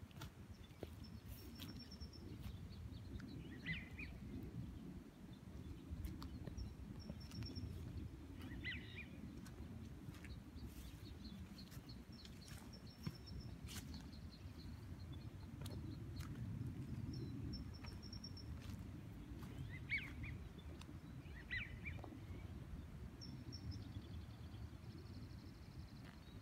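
Wild birds calling by a creek: a few short scratchy calls scattered every several seconds and a thin high note repeated about every five seconds, over a faint low rumble.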